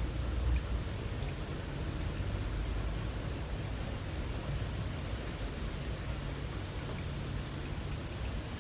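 Insects trilling in a thin, high steady tone that breaks off and resumes several times, over a steady low rumble and an even hiss of light rain.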